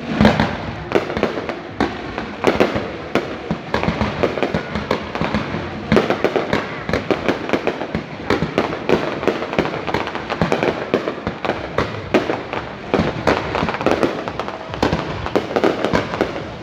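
Fireworks display: a dense, unbroken barrage of many bangs and crackles a second.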